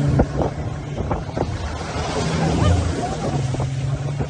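A motor running steadily with a low hum, with wind noise on the microphone.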